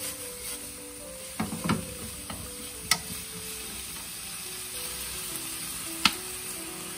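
Shredded cabbage and carrots sizzling in a hot nonstick pan as they are stir-fried with wooden chopsticks, with a few sharp clicks of the chopsticks against the pan, the loudest about three and six seconds in.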